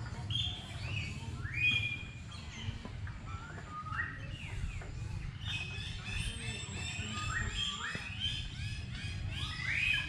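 Small birds chirping in quick, short repeated notes that overlap and grow busier in the second half, over a steady low rumble.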